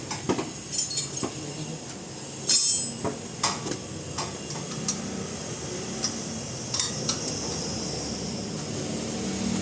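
Scattered metallic clinks and knocks of tools and metal parts being handled. The loudest is a ringing strike a little after two seconds in, with another sharp clink near seven seconds.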